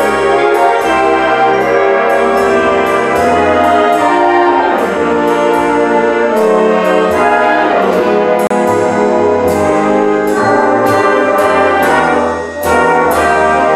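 Concert band playing, with brass to the fore, many sustained notes and frequent sharp percussion hits; the sound dips briefly near the end.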